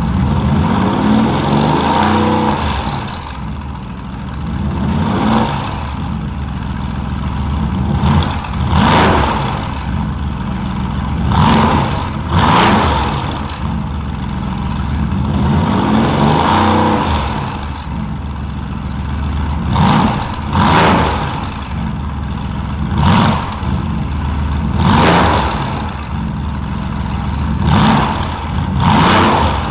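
Mercedes-AMG GT S twin-turbo 4.0-litre V8 through a Maintech custom valved exhaust, idling between about a dozen quick revs, each rising and then dropping back to idle.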